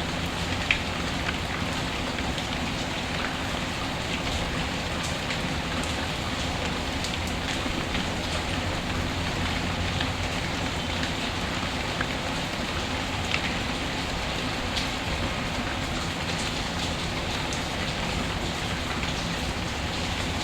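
Steady rain, with a few sharp pops from a crackling wood fire.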